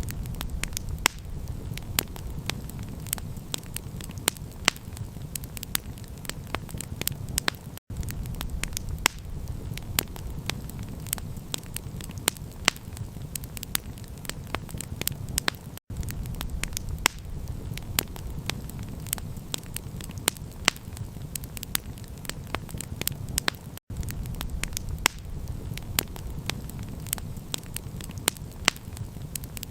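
Campfire crackling: frequent sharp pops and snaps over a steady low rumble, with a brief cut to silence about every eight seconds.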